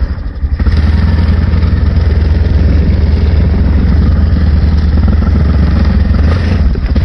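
Honda Recon 250 ATV's single-cylinder engine running under throttle while riding, dipping briefly about half a second in and then running loud and steady.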